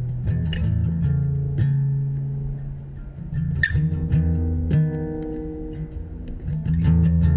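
Instrumental passage of a live band song with no singing: plucked guitar notes over sustained bass guitar notes.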